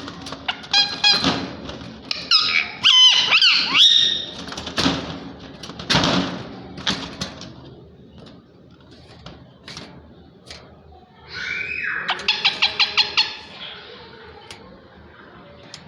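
Indian ringneck parakeets calling: short, sharp calls that bend in pitch through the first half, then a rapid run of about eight quick repeated calls a little after twelve seconds in.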